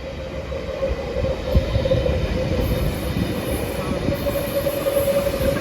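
Electric suburban train running through a station: a low rumble that builds, with a steady whine over it and a high hiss joining about halfway through.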